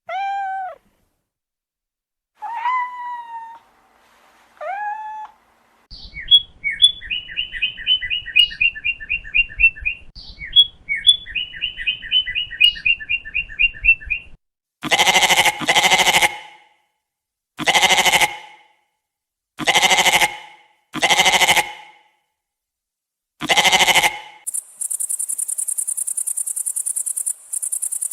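A run of animal calls: a cat meowing three times, then two runs of rapid high chirping, then six loud bleats, and from about 24 seconds in a steady high chirring like crickets.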